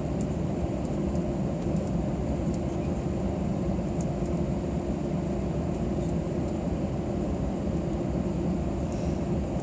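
Steady cabin noise inside an Airbus A320 on the ground before takeoff: a low rumble with a steady hum and a thin high whine, and a few faint ticks.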